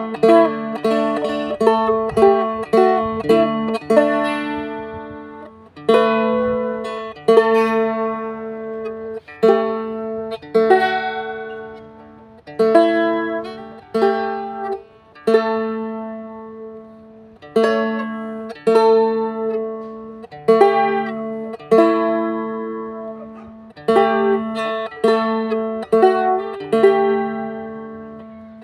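Music played on a plucked string instrument: runs of quick picked notes alternating with single struck chords that ring out and fade over a few seconds.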